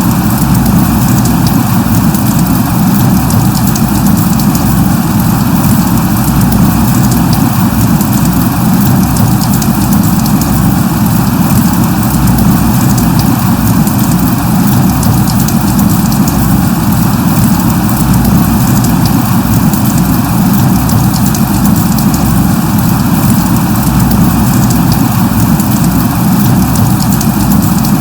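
Steady rain falling: an even hiss over a strong low rumble, with fine drop ticks scattered through it.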